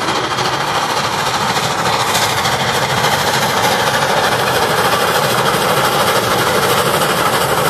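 Train behind the 611 steam locomotive rolling past close by: a loud, steady rumble with a fast rattle of wheels on the rails.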